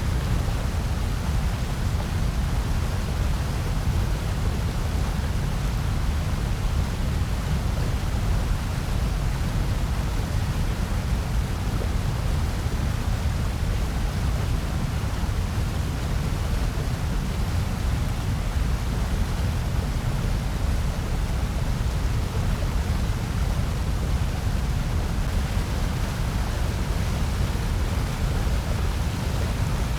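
Continuous white noise for sleep or focus: a steady, unchanging hiss with a heavy low rumble underneath.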